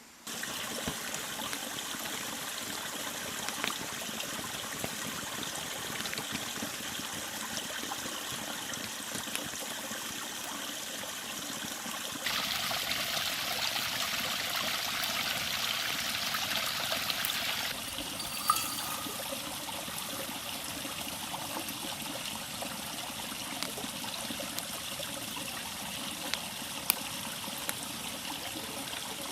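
A river running, a steady rushing and trickling of water that grows louder for about five seconds partway through. A few sharp clicks stand out, the strongest a little after the louder stretch.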